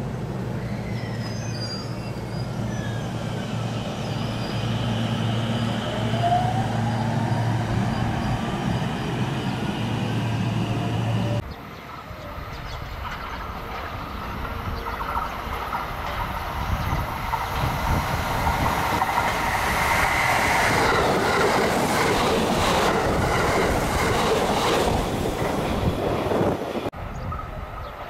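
Limited express electric train approaching and passing through a station at speed without stopping: wheels running on rail, growing louder, with rapid clatter over the rail joints, loudest about two-thirds of the way in. A steady low hum comes before it, and near the end the sound cuts to another train approaching.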